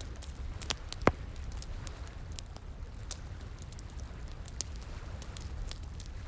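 Wood fire crackling, with scattered sharp pops and one louder snap about a second in, over a steady low rush of flowing water.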